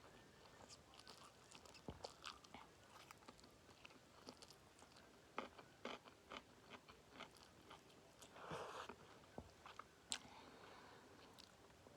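Quiet close-up eating sounds: chewing and biting on spicy instant noodles mixed with fried egg and nuts, with scattered small crunchy clicks and a brief noisy rush about eight and a half seconds in.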